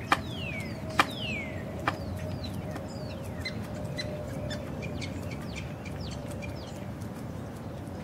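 Birds chirping and whistling: several falling whistled notes and short high chirps. Three sharp clicks in the first two seconds are the loudest sounds.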